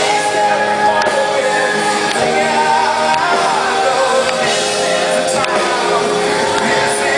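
Live rock band playing a song with a lead vocalist singing, heard in a large concert hall.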